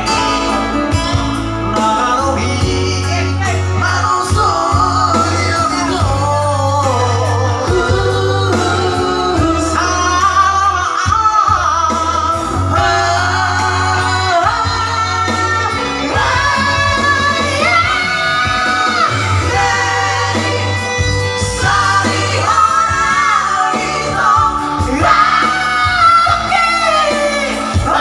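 Singing practice: a voice singing a song over loud backing music, with a steady bass line underneath.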